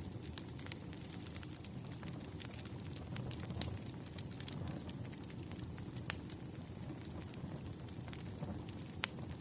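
Wood fire burning: a steady low rumble of flames with scattered sharp crackles and pops from the logs, a louder pop about six seconds in and another near the end.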